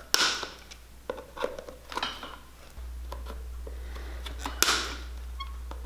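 Sharp clicks and small metallic clinks from hand tools working on a shoe's nailed bottom, with two louder snaps, one near the start and one about four and a half seconds in. A steady low electrical hum runs underneath.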